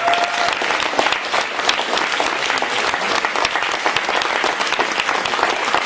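Audience applauding steadily, dense clapping from a room full of people, with a short whoop at the start.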